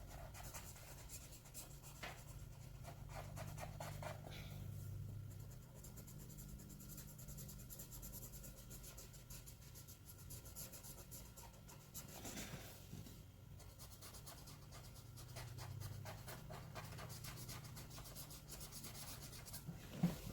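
Faint scratching of a pen on paper: many quick, continuous drawing strokes, like colouring in.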